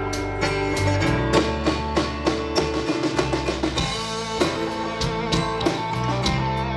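Live band playing a song's instrumental part: guitars strumming over bass and a drum kit keeping a steady beat.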